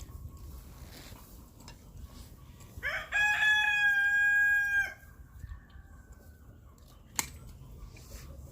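A rooster crowing once: one long, steady, high call about three seconds in, lasting about two seconds. A single sharp knock follows a couple of seconds later.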